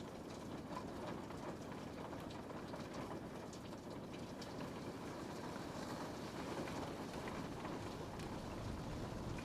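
Rain falling on a window pane: a steady hiss of rainfall with scattered small drop ticks. A low rumble builds slightly near the end.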